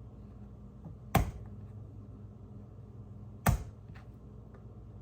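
Kitchen knife knocking down through ginger onto a cutting board: two sharp knocks a little over two seconds apart, with a few faint clicks and a low steady hum underneath.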